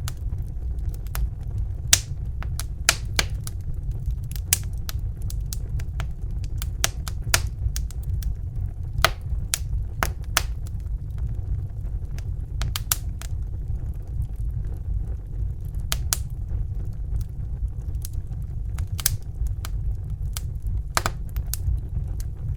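Crackling fire: irregular sharp pops and snaps scattered over a steady low rumble.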